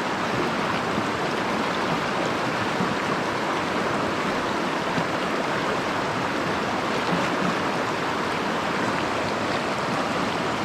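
A shallow mountain stream's water rushing and babbling over gravel and rocks.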